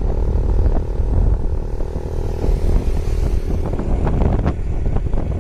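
Motorcycle engine running steadily while riding, with a heavy low rumble from wind on the microphone and a few short knocks or rattles near the end.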